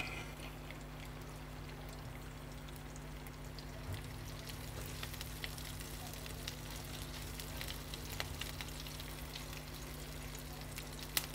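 Curry leaves and dried red chillies sizzling faintly in a little hot oil in a nonstick pan, tempering for the sauce, with scattered small pops and a silicone spatula stirring. A sharp click comes near the end.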